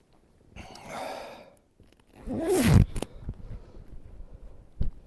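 Jacket being zipped up, with clothing rustling, and a short, loud breathy vocal sound from the man, like a sneeze or huff, about two and a half seconds in.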